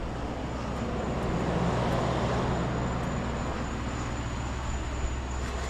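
Steady vehicle and road noise that swells a little and eases off over a few seconds, over a low steady hum.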